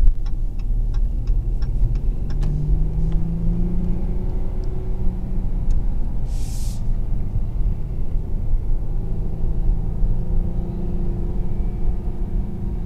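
Inside the cabin of a 2019 Dodge Charger GT while driving: steady engine and road rumble from its V6, the engine note rising for a couple of seconds about two seconds in. A run of steady ticks sounds at first, and there is a short hiss about halfway.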